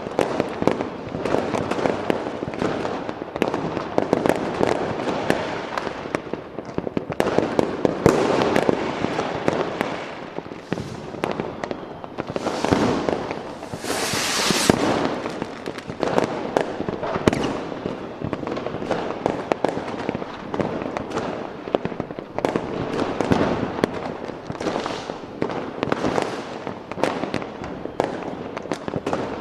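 A continuous fireworks barrage: dense, overlapping bangs and crackling bursts with no pause, and a brief rising hiss about halfway through, like a rocket going up.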